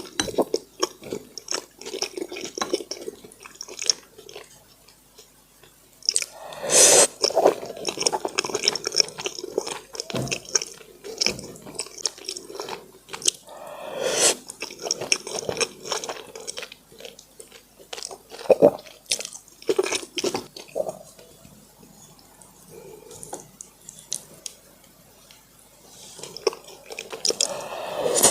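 A person chewing and eating braised pork in irregular bursts of wet mouth sounds and small clicks, with quieter pauses between bites.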